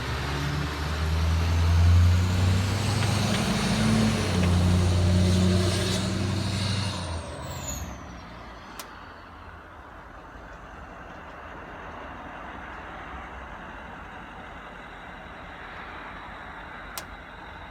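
Duramax LBZ 6.6-litre V8 turbodiesel with a 5-inch straight-pipe exhaust, running loud for about seven seconds with a high turbo whistle that rises and then falls away. The sound then drops to a faint steady rumble.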